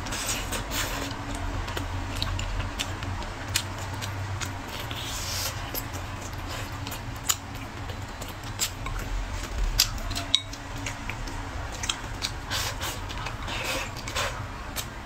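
Close-miked mouth sounds of eating braised chicken leg: chewing with irregular wet smacks and sharp clicks, over a steady low hum.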